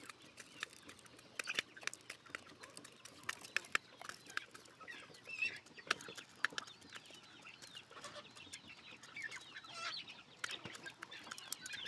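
Roosters clucking in short, high calls, among many sharp clicks scattered throughout.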